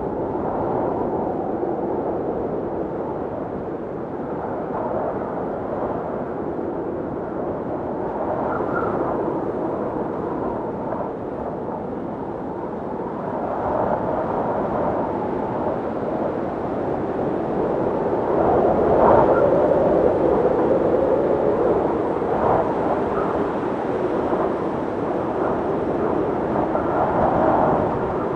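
Blizzard wind blowing steadily, rising and falling in gusts with a louder gust about two-thirds of the way in, and brief whistling tones in places.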